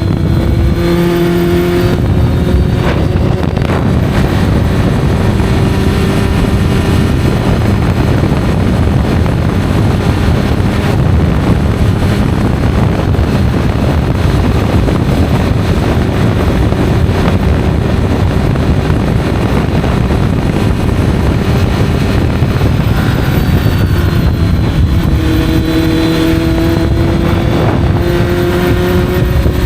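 Honda CB650F inline-four motorcycle with an Arrow exhaust, under way. The engine note climbs briefly at first, then a steady rushing noise covers it for most of the time, and near the end the engine note rises again as the bike accelerates.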